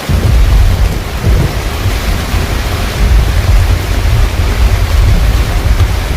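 Heavy rain pattering on a car rooftop tent, with a deep thunder rumble that breaks in suddenly and rolls on under the rain.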